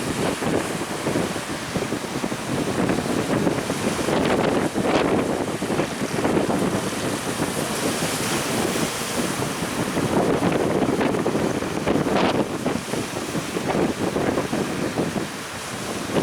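Strong wind buffeting the microphone in uneven gusts, over the wash of breaking sea waves.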